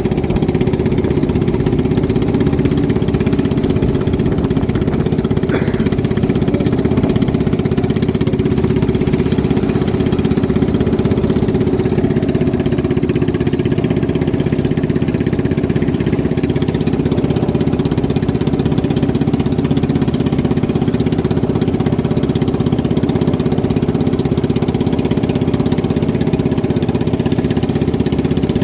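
Racing boat engines running steadily at speed, a loud continuous drone with a strong held pitch and no let-up.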